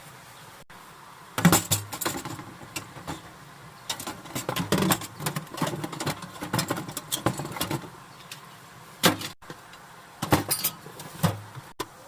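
Irregular clicks, knocks and rattles of objects being handled, in two clusters: a long busy stretch starting about a second and a half in, then a few sharper knocks near the end.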